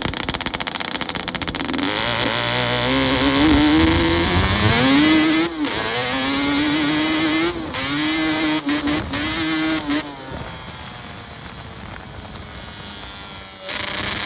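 Yamaha Banshee's two-stroke twin engine revving: its pitch climbs, cuts back sharply, and climbs again several times. It then drops to a quieter, lower drone for a few seconds before rising again near the end.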